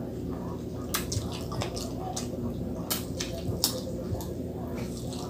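Close-miked chewing and lip-smacking while eating fried frog and rice by hand: a handful of sharp, wet mouth clicks at irregular intervals.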